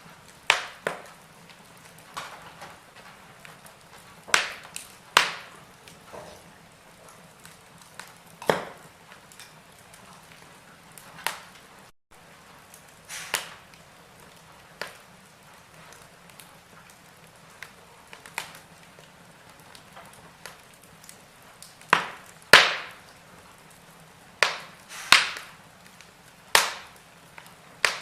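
Wood fire in a fireplace crackling: irregular sharp pops and snaps, a few of them loud, scattered over a faint steady background.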